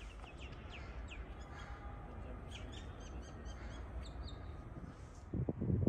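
Small songbirds chirping, with a series of quick downward-sweeping chirps followed by rapid repeated high notes. A loud rushing noise starts near the end.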